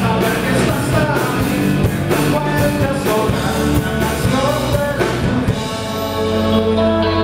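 Rock band playing live with a singer; the drums and cymbals drop out about five and a half seconds in, leaving held chords ringing.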